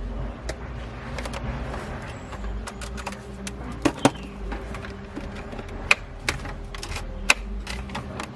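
Irregular taps and clicks over a steady low hum, with a few sharper knocks around the middle and later on.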